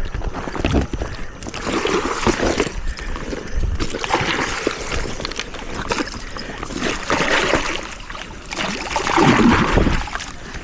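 Irregular splashing and sloshing of water as a hooked black bass thrashes at the surface while being brought in, the biggest splash near the end.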